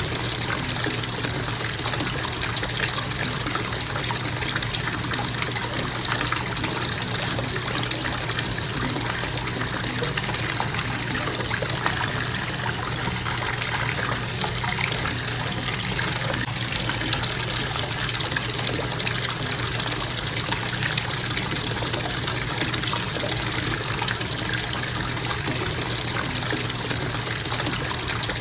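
Bathtub faucet running steadily, water pouring into the tub in a constant, unbroken flow.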